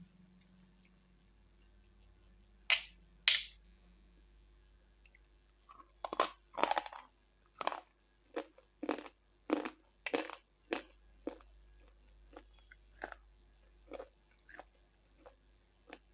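Slate pencil being bitten and chewed close to the microphone: two sharp snapping bites about three seconds in, then a run of crisp crunching chews, about two a second, that grow fainter near the end.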